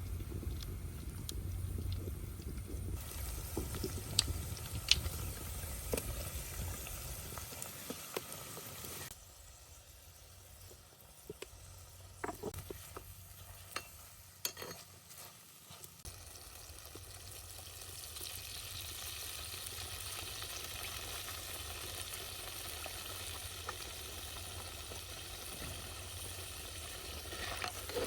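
Chicken wings sizzling over a wood fire, with scattered sharp clicks and taps. The sizzle drops away about a third of the way in, with a few clicks, then builds back to a steady hiss over the second half.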